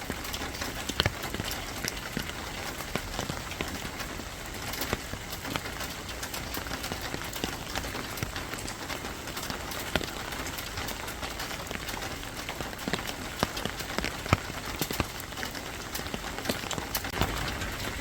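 Steady rain: an even hiss of falling rain with many scattered sharp taps of drops striking a surface.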